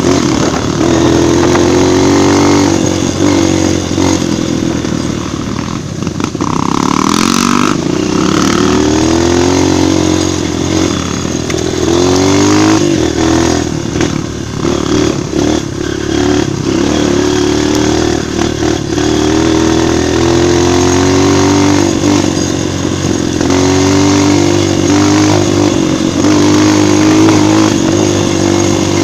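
Single-cylinder four-stroke trail motorcycle engine running under load, its pitch rising and falling over and over as the rider opens and eases the throttle and shifts gears on a dirt trail.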